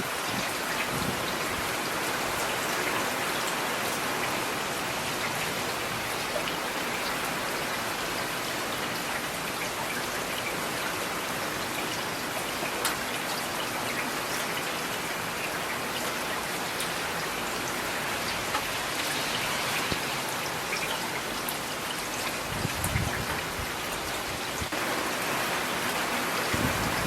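Steady rain with separate drop strikes standing out now and then. There is a brief low rumble about three quarters of the way through.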